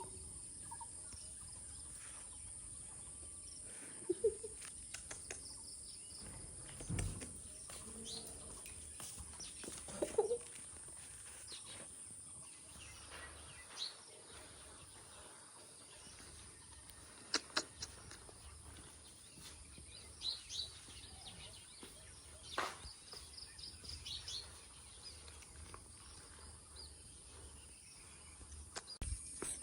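Quiet outdoor morning ambience: birds chirp faintly now and then over a steady faint high hiss, with a few soft knocks and clicks.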